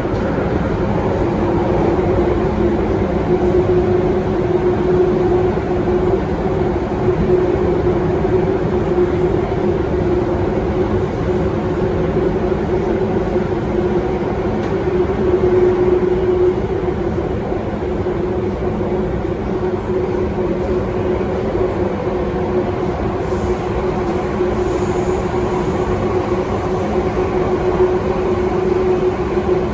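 Alstom Metropolis C830C metro train running at a steady speed, heard from inside the car: a constant rumble of wheels and running gear with a steady motor hum.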